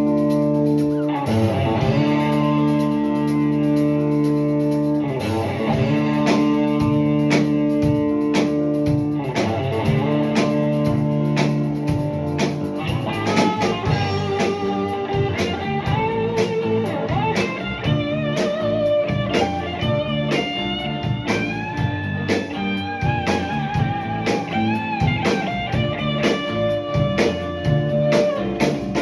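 A rock band playing a slow blues-rock instrumental passage on drums and sustained chords. From about 13 seconds in, an electric guitar lead comes in over the band, with bent notes and vibrato.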